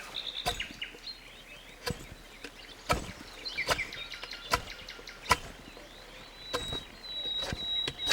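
Sharp knocks repeating about once a second, over birds chirping, with a high steady whistle held for about a second and a half near the end.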